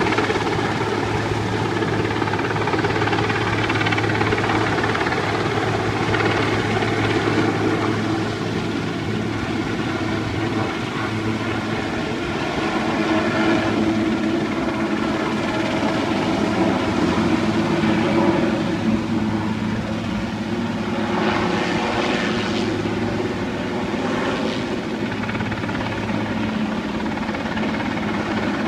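Helicopter running steadily overhead, a continuous rotor and engine drone.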